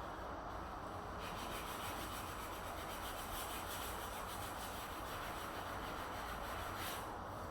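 A tool rubbing and scraping against wood during door repair work, a continuous abrasive sound that gets brighter and harsher from about a second in until near the end.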